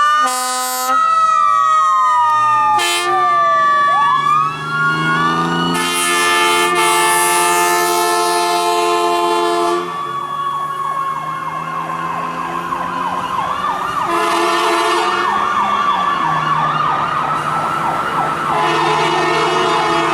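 Emergency sirens from a 1989 Pierce Lance fire engine and an ambulance responding: a wail that rises and falls, switching to a fast yelp about two-thirds of the way through, overlaid with long horn blasts about six seconds in and again twice near the end.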